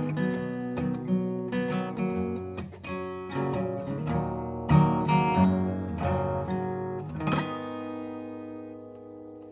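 Acoustic guitar played as the song's outro: picked and strummed chords, ending on a final strum about seven seconds in that rings out and fades away.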